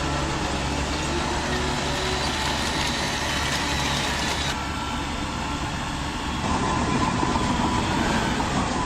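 Radio-controlled construction machines running: a steady mechanical drone with a motor whine that rises and falls. The sound changes abruptly about four and a half seconds in and again near six and a half seconds.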